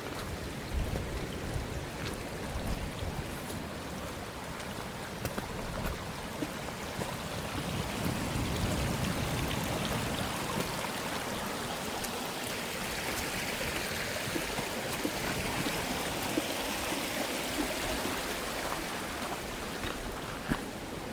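Running water from a stream, a steady rush swelling slightly in the middle, with a few faint ticks.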